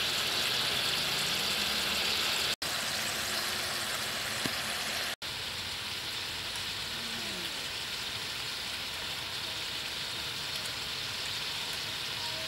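Beef and vegetable stir-fry sizzling in a wok, a steady hiss broken by two short dropouts about 2.5 and 5 seconds in. After the second break a steadier, slightly quieter hiss continues.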